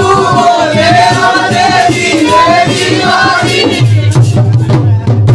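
Holi folk song: singing over musical accompaniment. Near the end the singing drops away and percussion strokes carry on.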